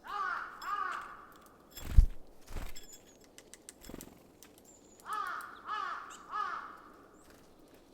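A crow cawing in two bursts of three harsh caws, one at the start and one about five seconds in. A sharp thump about two seconds in is the loudest sound, followed by fainter knocks.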